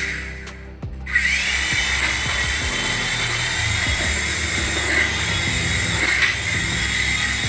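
Small electric motor of a toy RC helicopter spinning up about a second in, its whine rising briefly and then holding steady as the rotor runs.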